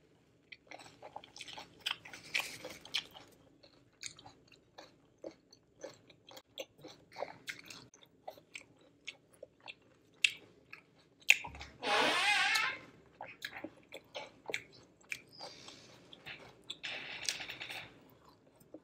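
Close-miked chewing of food: wet mouth clicks and soft crunches throughout. There is one louder, drawn-out mouth sound about twelve seconds in, and finger-licking near the end.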